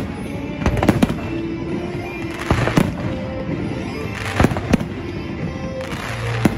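Fireworks: aerial shells bursting in about eight sharp bangs, roughly a second apart, with spells of crackling from glittering shells, over music playing underneath.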